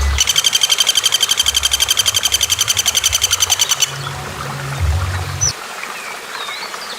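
A bird gives a rapid trilled rattle of sharp high notes, about ten a second, for roughly three and a half seconds before stopping abruptly. Faint scattered chirps follow over a low droning background.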